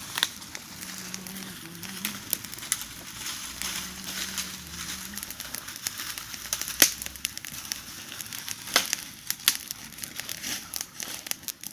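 Bonfire of branches crackling, with irregular sharp pops; the loudest pop comes about seven seconds in and another near nine seconds.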